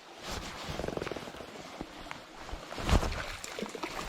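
Trout stream water running and splashing, with a sharp knock about three seconds in.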